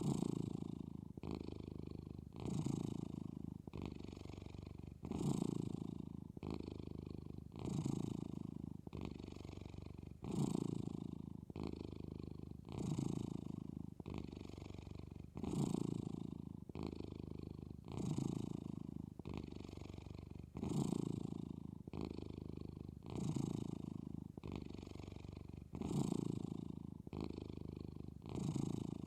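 Young Maine Coon cat purring steadily while dozing, the purr swelling on one breath and easing on the next, about one breath cycle every two and a half seconds.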